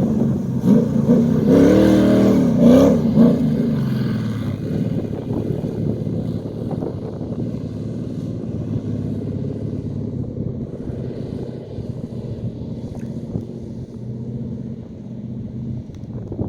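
Buggy's Chevrolet LS1 5.7-litre aluminium V8 revving up and down in the first few seconds, then running steadily at a lower pitch.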